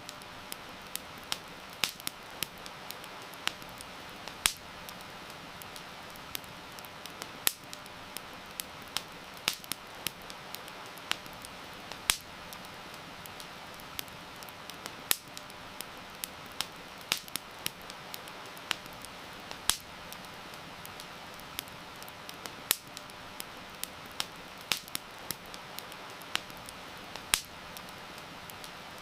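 Wood campfire crackling, with irregular sharp pops and snaps several times a second, over a steady hiss of heavy rain.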